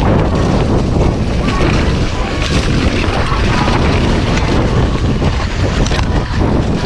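Loud, steady wind buffeting on the microphone, a rough rumbling rush heaviest in the low end.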